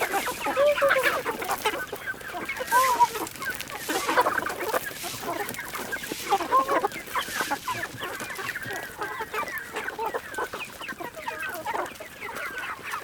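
Several chickens clucking, with many short calls overlapping throughout.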